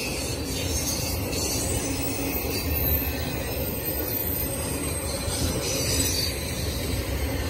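Intermodal freight train's cars rolling past: a steady rumble of steel wheels on the rails, with thin high-pitched wheel squeal coming and going.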